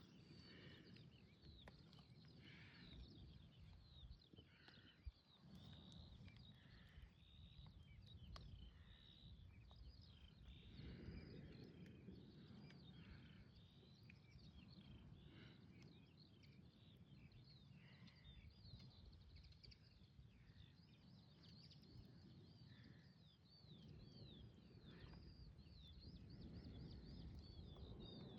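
Faint outdoor ambience: a low, uneven rumble with many quick chirps of small birds singing throughout.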